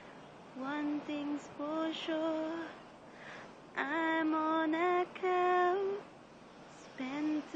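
A woman's voice singing unaccompanied, in short phrases of held notes with brief pauses between them.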